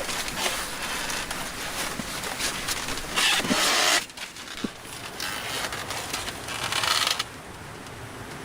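Wood being scraped or rasped by hand, in two loud stretches, a short one about three seconds in and a longer swelling one from about five seconds, each cutting off abruptly, with small knocks and clicks around them.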